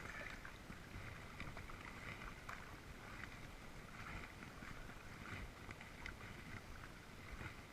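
Kayak being paddled: soft splashes of the paddle blades dipping into the water, about once a second.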